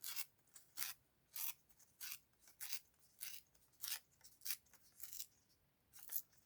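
Designer paper being torn by hand in a series of short rips, about ten evenly spaced strokes, to give a jagged torn edge.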